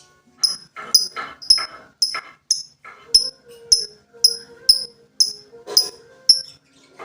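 Lovebird chirping: a run of sharp, high chirps repeated about twice a second, with fainter lower chatter between them.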